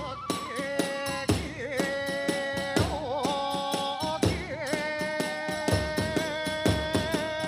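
Kagura hayashi ensemble playing: a bamboo flute holds a wavering, sustained melody over rapid, steady beats of drum and small hand cymbals.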